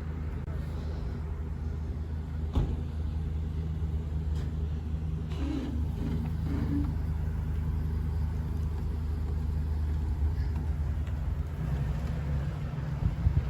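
Steady low rumble of a vehicle driving on the road, with a single sharp click about two and a half seconds in.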